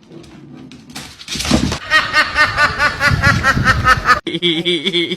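A fast run of laughter, about five quick pulses a second, that starts about a second in and cuts off suddenly near the end, followed by a steady held tone.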